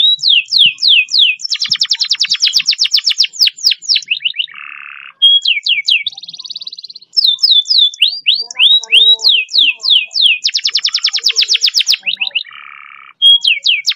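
Domestic canary singing: runs of fast repeated downward-sweeping whistles and rapid trilled rolls, broken twice by a short buzzy lower note.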